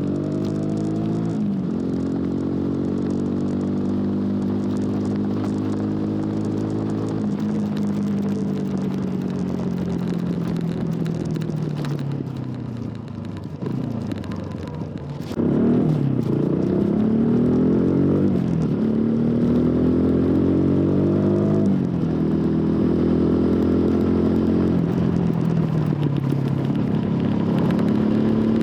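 TVS Apache RTR 200 4V's single-cylinder engine through its stock exhaust under way. It pulls through the gears with pitch rising and then dropping at each shift, eases off and slows about halfway in, then is opened up hard and climbs through quick upshifts.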